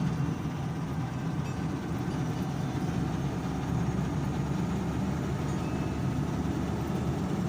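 Steady engine and road noise of a car driving, a low even rumble without breaks.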